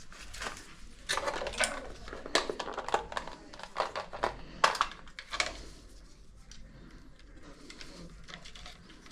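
Short clicks and clinks of small hard parts or tools being handled, busiest in the first half and quieter after about six seconds.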